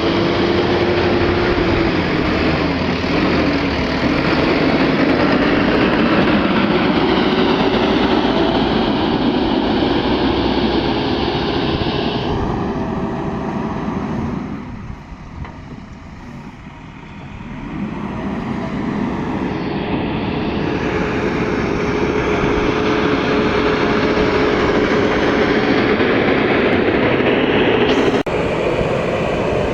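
A JCB 3DX backhoe loader's diesel engine working hard, its pitch wavering as it is revved. About halfway through it eases off for a few seconds, then builds back up, with an abrupt break near the end.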